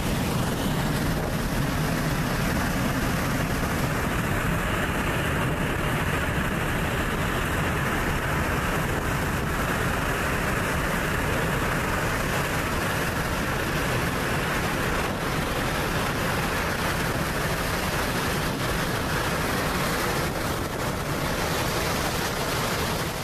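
Fighter jet engine noise from a MiG-35: a steady, even roar of jet exhaust with no clear pitch, its tone shifting slightly higher after a few seconds.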